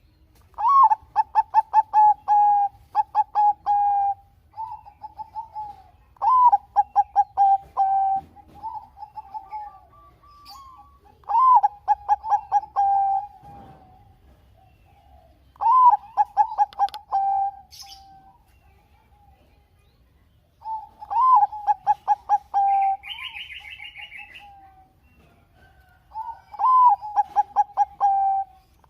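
Zebra dove (Bangkok-type perkutut) cooing: six song phrases about five seconds apart, each a quick stuttering run of notes ending in a held coo, with softer calls in between.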